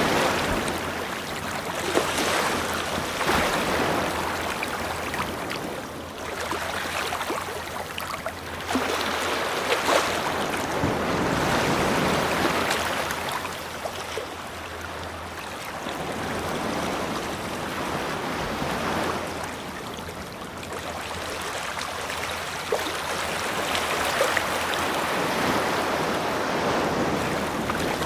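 Ocean waves breaking and washing up a shore, the surf swelling and easing again every few seconds.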